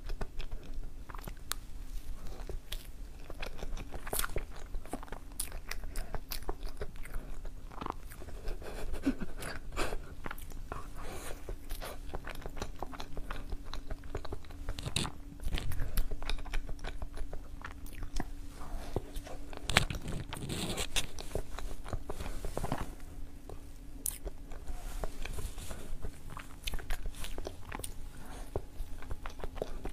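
Close-miked chewing and biting of soft chocolate mille-crepe cake, with many small mouth clicks throughout.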